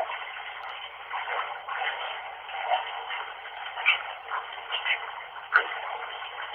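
Bath tap water running steadily, heard through a flip phone's narrow-band recording, so it comes across as a thin, even hiss with a few brief louder patches.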